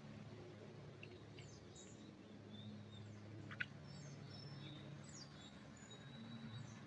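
Faint, scattered short chirps and tweets of small songbirds in a pine forest, over a low steady background hum, with one sharp tick about halfway through.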